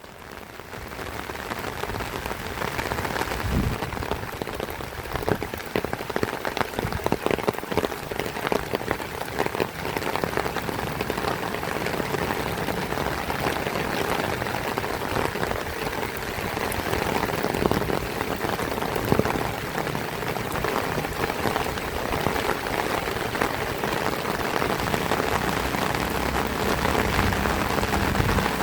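Heavy rain falling: a dense steady hiss full of close, individual drop hits. It fades in over the first couple of seconds.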